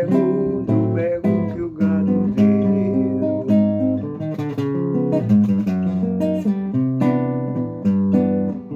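Acoustic guitar strummed in an instrumental passage with no singing, chords changing every second or so.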